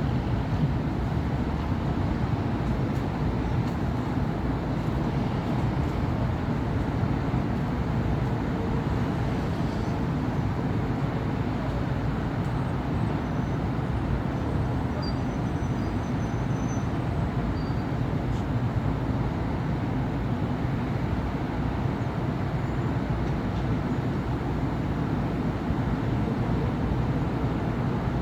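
Steady city road traffic: a continuous rumble of cars and buses passing on a busy avenue, with no single vehicle standing out.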